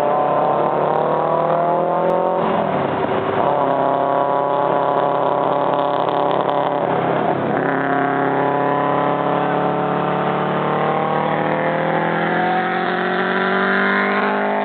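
Nissan 300ZX twin-turbo V6 (VG30DETT) accelerating hard. Its pitch climbs steadily through each gear, dropping at upshifts about two and a half and seven and a half seconds in.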